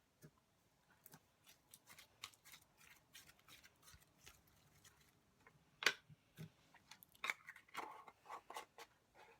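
Slime being worked by hand, making a run of small clicks and pops, with one sharper pop about six seconds in and a denser patch of crackling near the end.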